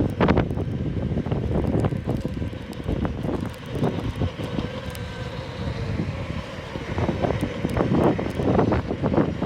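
Wind buffeting the microphone of a rider moving on an electric unicycle: a steady low rumble with frequent short knocks, busiest near the end.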